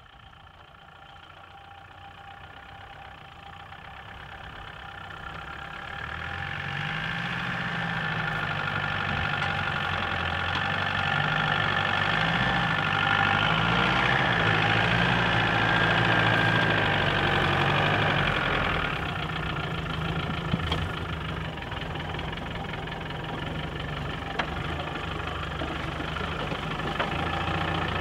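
Land Rover Series III engine running at low revs as it crawls off-road, growing louder over the first ten seconds or so. Its note rises and falls with the throttle, then settles steadier and a little quieter in the second half, with a few faint clicks.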